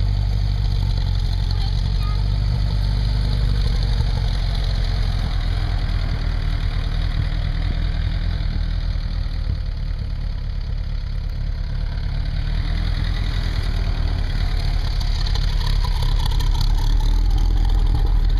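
Open-top Jeep CJ5 with a turbocharged 134 F-head four-cylinder engine running while driving through snow, with a heavy low rumble. The sound eases about halfway through and builds again toward the end.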